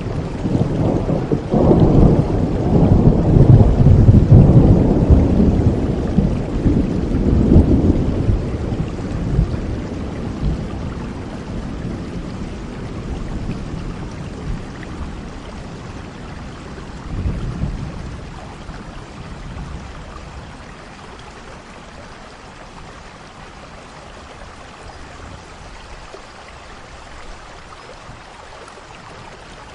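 Steady rain with a long rolling rumble of thunder that builds about a second in, is loudest for several seconds, then fades away; a smaller rumble follows about halfway through, and the last third is rain alone.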